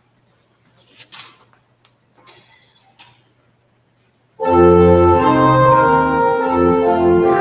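A few faint brief rustles, then about four seconds in a church organ starts a hymn, playing loud sustained chords.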